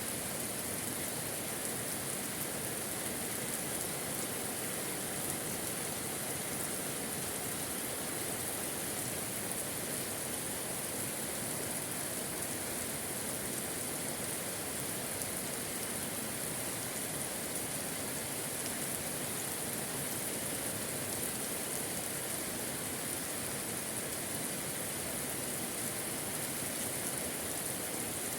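Steady, moderate rain falling and pattering on surfaces, an even hiss with no letup.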